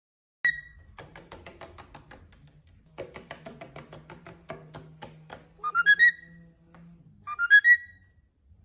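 Whistling: fast repeated short notes, then a quick run of rising notes sounded twice, with a third starting near the end.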